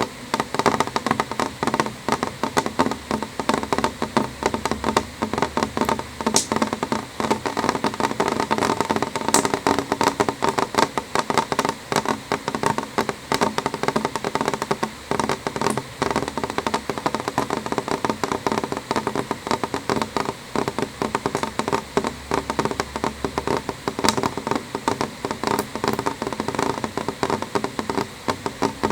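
Rain falling on a window pane: a dense, steady patter of drops on the glass, with an occasional sharper tap.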